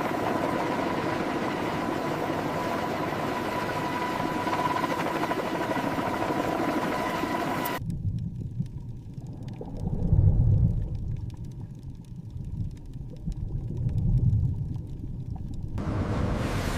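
A steady noisy drone with a faint steady tone in it cuts off abruptly about eight seconds in. Deep low rumbles follow and swell twice, then the noisy drone returns near the end.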